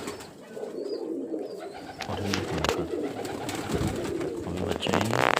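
Domestic pigeons cooing in a loft, a steady murmur with a few sharp clicks, the loudest near the end.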